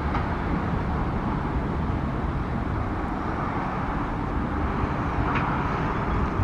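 Steady outdoor background rumble and hiss, with a brief faint high chirp about five seconds in.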